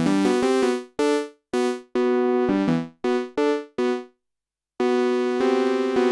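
Sequential OB-6 analog polyphonic synthesizer playing a bright patch with portamento, notes gliding into pitch. A run of short notes that each die away, a brief pause, then held notes from about five seconds in.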